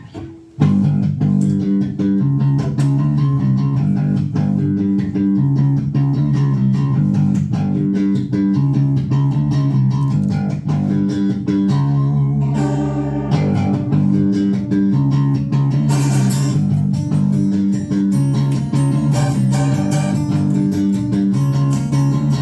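Live band instrumental intro: electric guitars and bass guitar playing a repeating riff, starting about half a second in after a brief pause.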